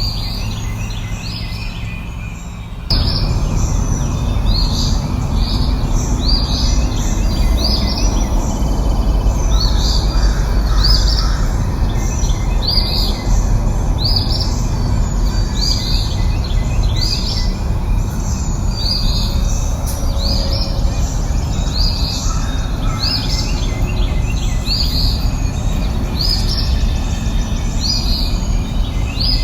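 Small songbirds chirping, short high calls repeated about once a second, over a steady low rumble of outdoor background noise that turns louder about three seconds in.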